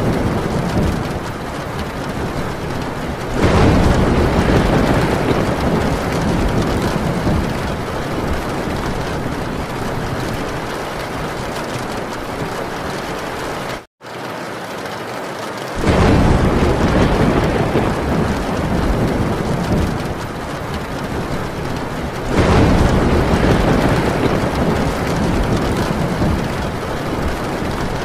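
Heavy rain pouring steadily on a tin roof, with thunder rumbling in three long low swells, about three seconds in, around sixteen seconds in and again about twenty-two seconds in. The sound cuts out for an instant about halfway through.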